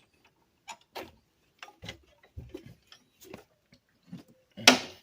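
Irregular light clicks and knocks of hand tools being handled and set down, with a louder knock near the end.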